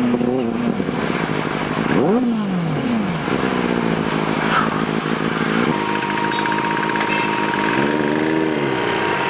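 Motorcycle engine running loud with the throttle worked, rising and dropping in pitch as it revs. There is a quick blip about two seconds in and another rise and fall near the end.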